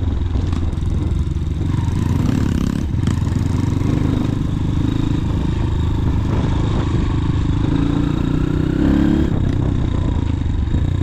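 Motorcycle engine running while riding, its pitch rising and falling as the throttle is opened and closed, notably about two seconds in and again near the end.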